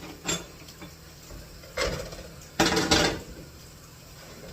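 Kitchenware clattering: a short knock just after the start, another a little under two seconds in, then a louder, longer rattle of knocks for about half a second.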